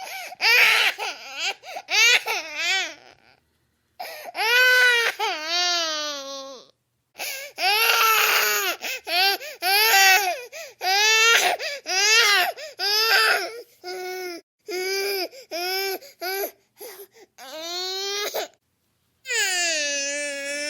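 A baby crying in a series of wails, each rising and falling in pitch, with short breaths and pauses between them and one longer drawn-out wail near the end.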